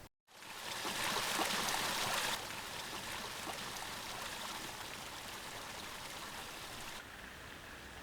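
Steady rain falling, an even hiss. It starts after a brief gap, is loudest for the first couple of seconds, then drops to a softer steady level.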